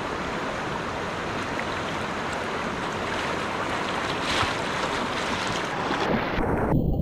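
Steady rushing water noise from the creek in the rain, with a brief crackly splash about four seconds in. Near the end the sound turns suddenly dull and muffled, with low bumping and sloshing.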